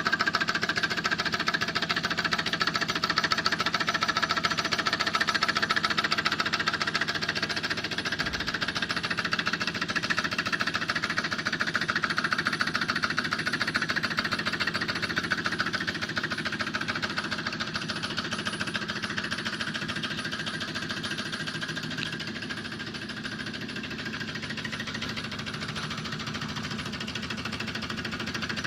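Alpha-type Stirling engine running: a fast, even mechanical clatter that keeps a steady rhythm and gets a little quieter past the middle.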